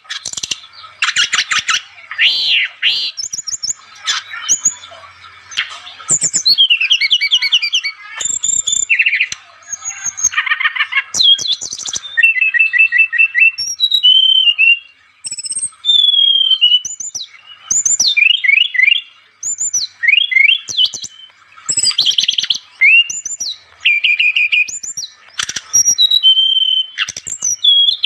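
Brown-chested jungle flycatcher (SRDC) singing a long, busy song of rapid, varied phrases: fast trills, rising and falling high whistles and sharp chips, with short pauses between bursts.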